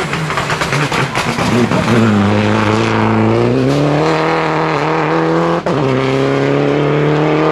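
Rally car engine at high revs as the car comes along the stage, its note climbing in pitch for a couple of seconds and then holding steady, with a brief break in the sound about five and a half seconds in.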